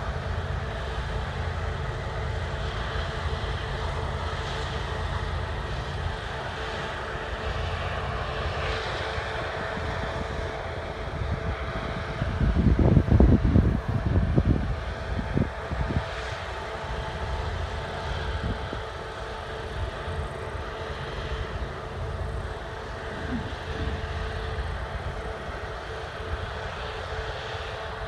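Diesel engines of harvest machinery running with a steady drone and a steady hum. About halfway through, a louder low rumble swells for a few seconds, then dies back.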